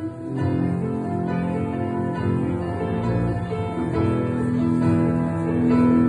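Acoustic guitar playing an instrumental passage of a song, with no singing.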